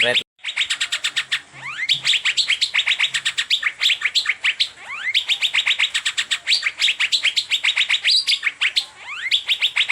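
Asian fairy-bluebird (cucak biru) singing a fast, unbroken string of sharp chirps, about eight notes a second, with occasional rising whistled sweeps. A brief dropout to silence comes right at the start.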